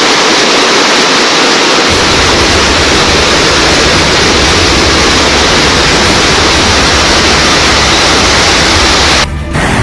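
Loud, steady rushing noise of a storm, with a deep rumble joining about two seconds in; it cuts off abruptly near the end.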